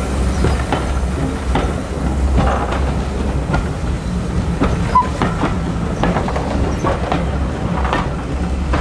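Steam-hauled passenger coaches rolling past close by: a steady low rumble with irregular sharp clicks of the wheels running over rail joints.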